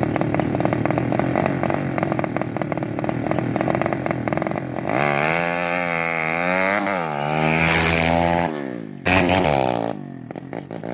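Honda Karisma single-cylinder motorcycle engine, enlarged to 200cc, running with a rapid even firing beat for the first few seconds. About five seconds in it revs up and down several times in quick rises and falls, then drops away near the end.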